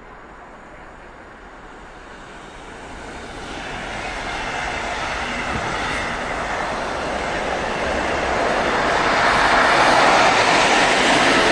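Passing trains rolling by: the noise of wheels on rails builds steadily and is loudest near the end, as an electric locomotive hauling a container freight train goes past.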